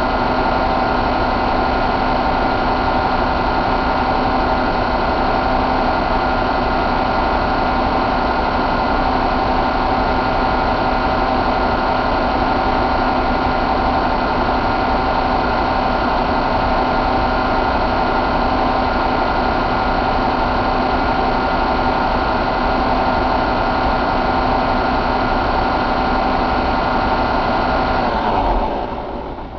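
2014 Volvo D13 inline-six diesel engine running steadily at a constant speed, then shut off near the end, its sound dropping away as it winds down.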